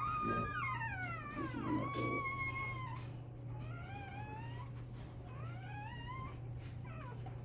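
Newborn American Bully puppies squealing and mewing: thin, high cries that glide up and down, several overlapping in the first three seconds, then two shorter rising cries later on. A steady low hum runs underneath.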